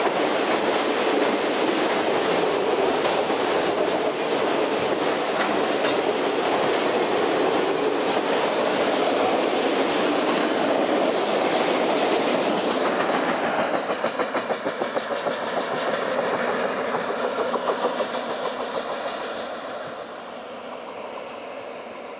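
Freight train of autorack cars rolling past at track speed, steel wheels clattering on the rail. Near the end the last cars go by in a rhythmic clatter, and the noise drops away to a fading roll as the train recedes.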